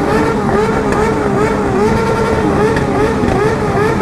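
Motorcycle engines running loud, one revved over and over in quick blips so that its pitch rises and falls about two to three times a second, over the rumble of other bikes.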